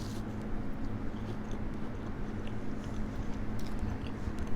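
Close-up chewing of a Cheeto-dust-coated fried pepper jack cheese bite, with soft wet mouth clicks, over the steady hum of an electric fan.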